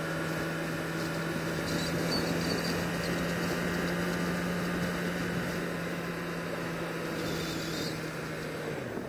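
Sport bike engine running at a steady speed under a haze of road and wind noise; its pitch falls just before the end as it slows.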